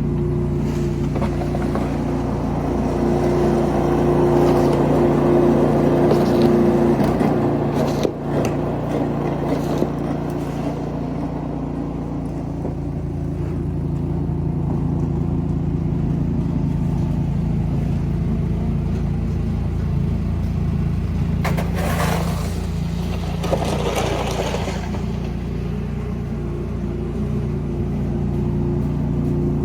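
An engine running steadily at an even pitch, with two short bursts of noise a little past twenty seconds in.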